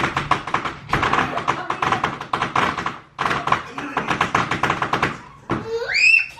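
A string of firecrackers going off in a rapid crackle of pops, with a short break about three seconds in. Near the end a high cry that rises and falls starts.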